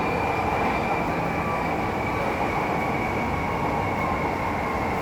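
Lucknow Metro train running between stations, heard from inside the carriage: a steady rumble and rush of wheels on track with a steady high whine.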